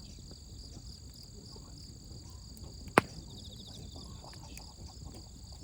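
Crickets chirping steadily, with a few faint pops and one loud, sharp crack about three seconds in from the burning wood of a campfire.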